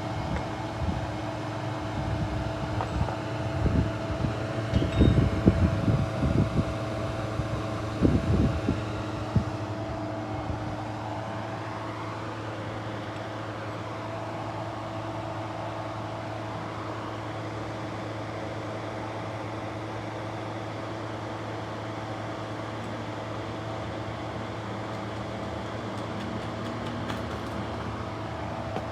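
A steady mechanical hum with a run of low thumps and rumbles through the first nine seconds.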